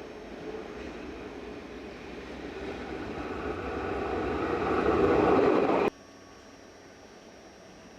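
A vehicle growing steadily louder as it approaches, cut off suddenly about six seconds in, leaving only a faint steady hiss.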